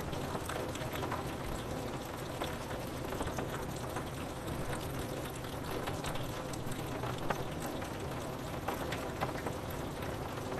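Steady rain falling on a window, with many scattered sharp taps of single drops over an even hiss.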